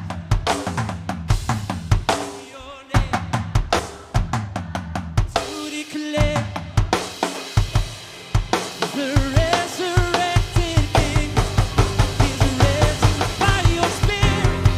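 Live worship band playing an instrumental passage: a drum kit drives it with kick and snare hits, building to a steady fast pulse in the second half while keyboards and guitars hold sustained chords.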